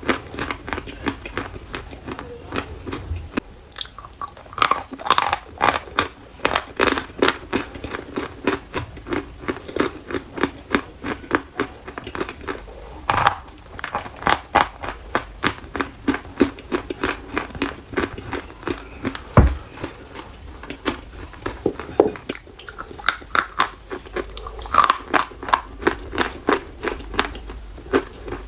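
Dry chalk being bitten and chewed: a continuous run of crisp crunches, several a second, with a few sharper bites.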